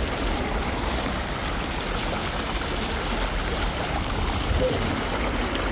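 Steady rush of running water, a continuous even hiss with no breaks.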